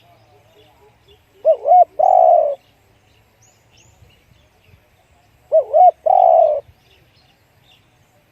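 Spotted dove cooing: two song phrases about four seconds apart, each two short, quick notes followed by one longer coo. Faint chirps of small birds sound between the phrases.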